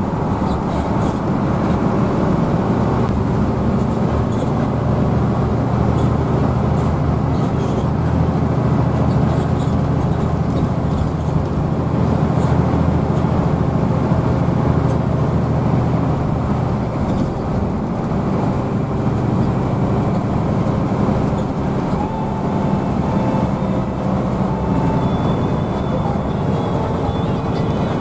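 Hino AK bus's diesel engine running steadily with road noise, heard from inside the moving bus.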